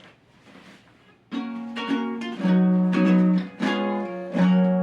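Music: chords strummed on a plucked string instrument, coming in after about a second of quiet and changing every second or so.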